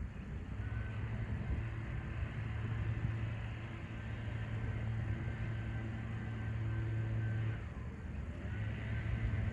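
An engine running at a steady pitch, dropping away briefly near the end and then coming back.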